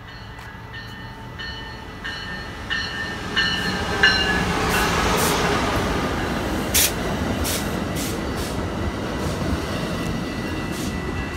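Amtrak passenger train passing at speed. A bell rings in regular strokes, about one and a half a second, growing louder as the locomotive approaches. About four seconds in, the rush of the train takes over, loud and steady as the passenger cars go by, with a few sharp clacks of wheels over the rail joints.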